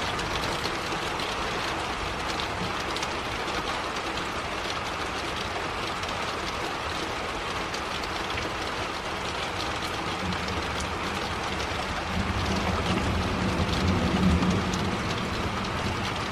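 Steady heavy rain falling, a dense patter of drops. About ten seconds in a low rumble swells up, loudest a couple of seconds before the end, then eases.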